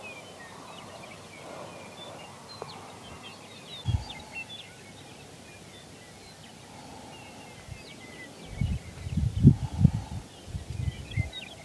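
Small birds calling in many short chirps and twitters, scattered and overlapping. From about eight seconds in, irregular low buffeting rumbles come in and are louder than the birds.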